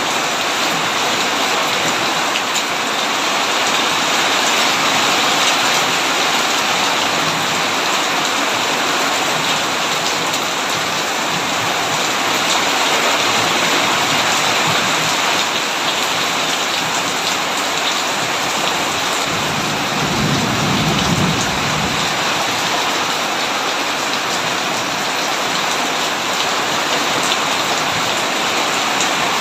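Heavy rain pouring steadily onto a tin roof, with a brief low rumble of thunder about twenty seconds in.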